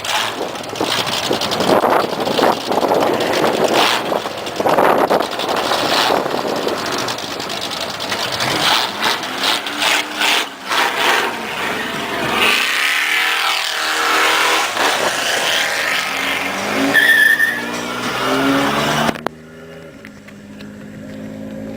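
Car engine running hard and revving, its pitch sweeping up and down, then climbing in steps as it accelerates. The sound drops away suddenly near the end.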